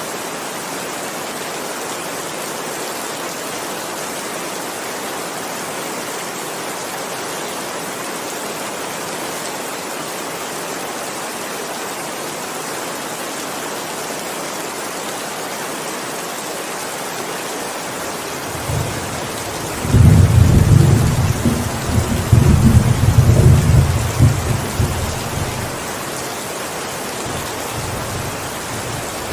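Steady heavy rain falling. About two-thirds of the way through, a roll of thunder rumbles in low and loud, peaks for several seconds, then fades back under the rain.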